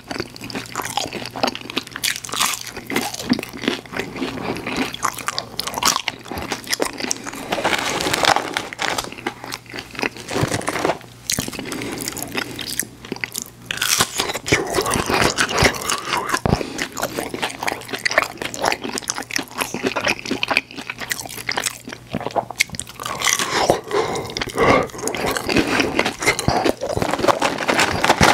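Close-miked biting, crunching and chewing of crispy fried McDonald's chicken nuggets and french fries, a dense run of crisp crackles and crunches with wet mouth sounds.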